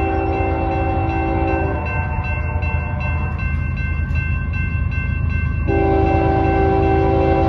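A fast-approaching train's locomotive sounds its multi-tone air horn in two long blasts: the first stops about two seconds in, and the second starts near the end and holds. A steady low rumble from the train runs underneath.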